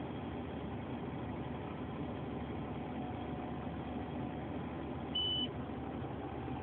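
Grain combine harvester running with a steady drone, with one short high-pitched beep about five seconds in.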